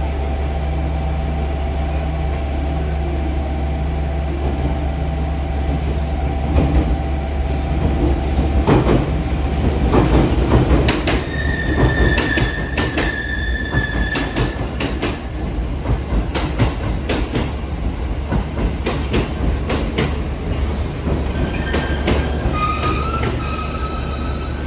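JR Kyushu 787-series electric train pulling slowly into the station, its wheels clicking over rail joints and points. A high steady squeal sounds about halfway through, and higher squeals return near the end as the train slows.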